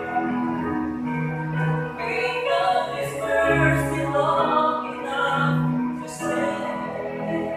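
A slow worship song: sung voice holding long notes over instrumental accompaniment.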